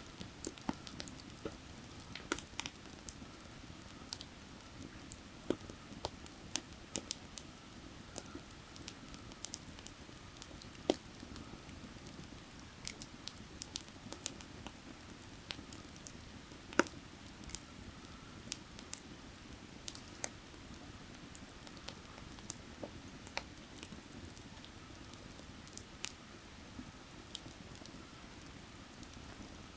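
Firewood burning, crackling with irregular sharp pops, over the steady rush of a nearby creek.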